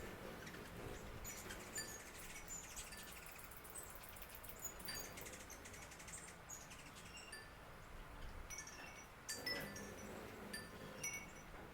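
Quiet outdoor ambience of scattered, short, high tinkling and chirping notes over a faint steady hiss, with a few soft clicks, the loudest about nine and a half seconds in.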